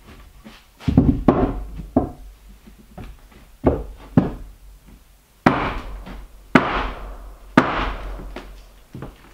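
Heavy knocks and thuds on wood, about eight irregular blows over nine seconds, each ringing briefly after the hit.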